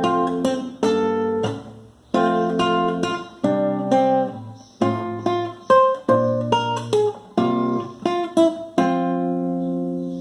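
Acoustic guitar playing a short melodic introduction: plucked chords and single notes, each ringing and dying away, ending on a long held chord near the end.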